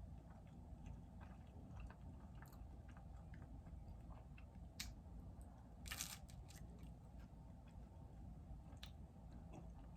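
A person chewing food quietly, with scattered small mouth clicks and a louder, half-second crunch about six seconds in, over a low steady hum.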